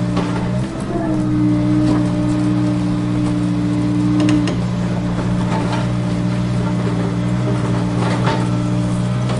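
Small electric motors of a remote-control toy construction vehicle running with a steady hum. The hum dips briefly under a second in and its higher tone drops out about four and a half seconds in, with a few faint clicks.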